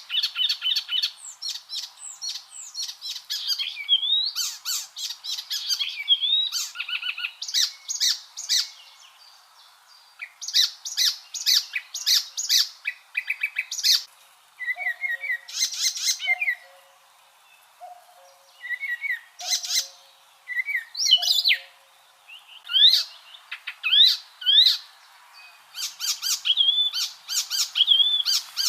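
Icterine warbler singing: a fast, varied song of rapidly repeated chattering notes, whistled slurs and short phrases, in bursts broken by brief pauses.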